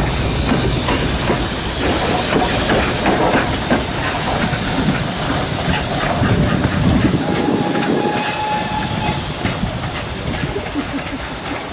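Steam locomotive hissing steam as the train runs on the rails with a stream of wheel clicks. The hiss is strongest in the middle, a brief faint squeal shows about two-thirds through, and the sound eases slightly near the end.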